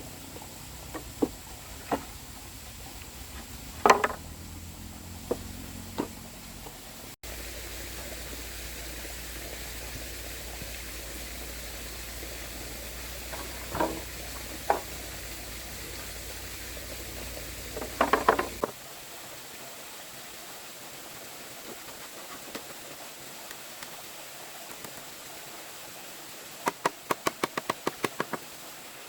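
Scattered sharp knocks over a steady background hiss, with a quick run of about eight knocks near the end.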